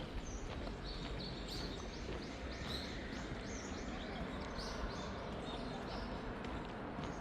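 Small birds chirping, short high calls repeated about twice a second, over a steady low background rumble.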